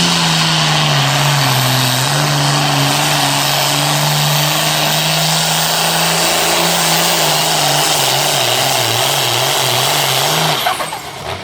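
Turbocharged diesel pulling tractor running at full throttle as it drags the sled down the track, the engine pitch wavering up and down, more so near the end. The engine drops off suddenly about ten and a half seconds in as the pull ends.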